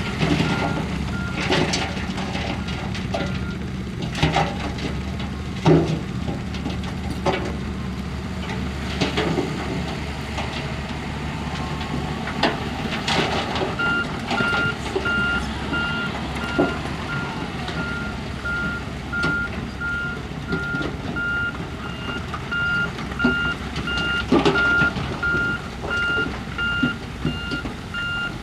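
A heavy machine's reversing alarm beeping about twice a second for the first few seconds and again from about halfway on, over running diesel engines and irregular clanks and knocks of rock and steel from earthmoving equipment.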